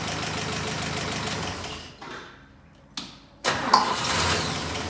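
Jeep M170's four-cylinder F-head engine running, shut off so it winds down and stops, then, after a click, restarted hot and catching at once. The hot restart is a check that the ignition timing is not off.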